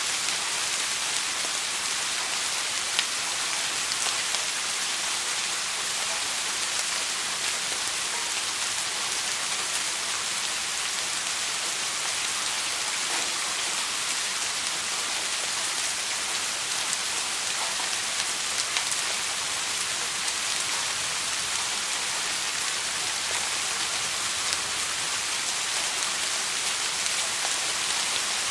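Steady rain falling, a dense even hiss with scattered individual drops ticking against a surface.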